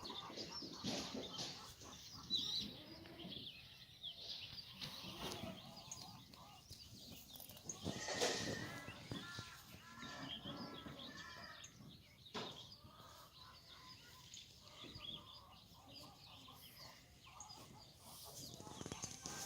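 Black goats bleating, many calls overlapping one another, the loudest about eight seconds in.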